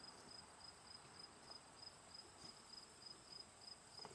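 Near silence, with a faint high-pitched chirping from a cricket, pulsing evenly about four to five times a second.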